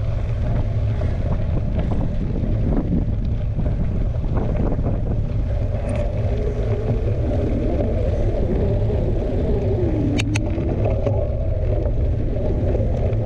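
Steady low rumble of wind buffeting the camera microphone, with two sharp clicks about ten seconds in.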